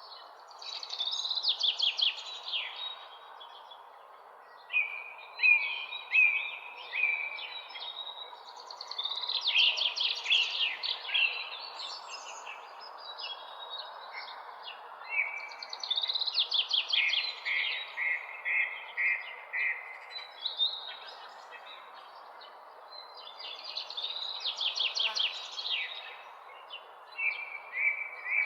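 Songbirds singing at dawn. One bird repeats a loud song about every seven seconds: a fast trill ending in a run of evenly repeated notes. Softer chirps fill the gaps, over a steady background hiss.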